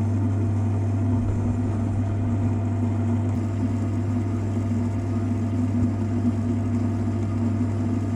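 Lathe running steadily with a constant low hum.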